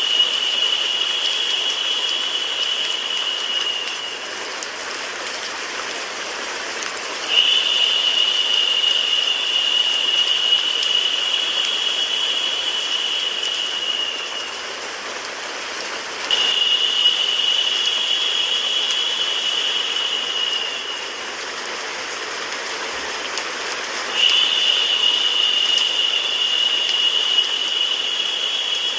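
Rain sound mixed with white noise: a steady even hiss. A higher-pitched hissing layer cuts in suddenly about 7, 16 and 24 seconds in, each time lifting the level, and drops away a few seconds before each return.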